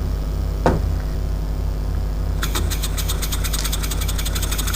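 Homemade compressed-air engine running: a single knock about a second in, then about halfway through a fast, even clicking of roughly seven or eight strokes a second begins, over a steady low hum.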